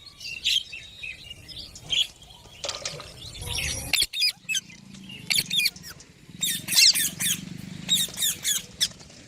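Green parrots calling with short, sharp high-pitched chirps and squawks in quick clusters, busiest in the second half.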